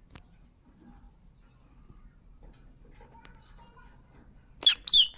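Parrot eating apple, with faint clicks of its beak, then near the end two short, loud, shrill calls in quick succession.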